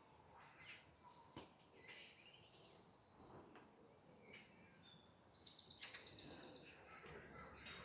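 Wild birds calling faintly, with a rapid rattling call about three seconds in and a louder, longer one around six seconds, among scattered high chirps.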